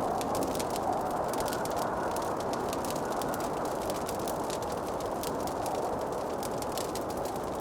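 Wood fire in a fireplace crackling: many small, irregular pops and snaps over a steady low rushing noise.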